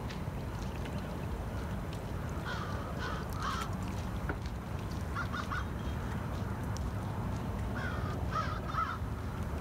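Birds calling in three short series of repeated calls, over a steady low outdoor rumble.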